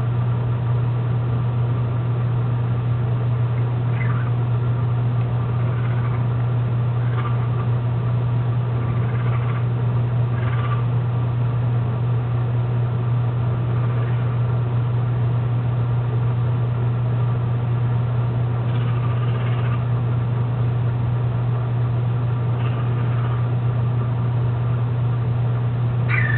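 A loud, steady low hum that does not change, with a few faint short chirps or calls scattered over it.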